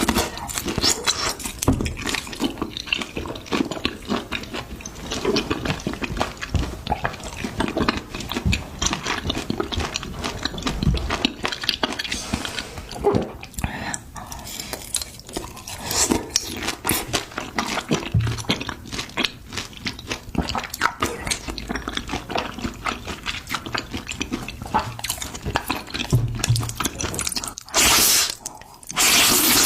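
Close-miked eating of spicy noodles and beef intestines: wet slurping and chewing, with many quick smacks and clicks and a longer, louder slurp near the end.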